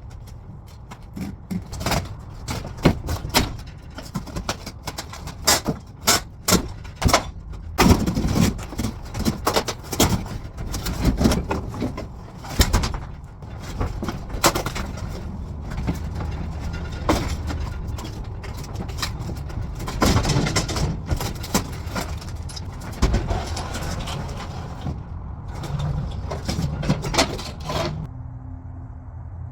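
Irregular knocks, bangs and clattering of work on a truck camper's structure, with a steady low hum coming in near the end.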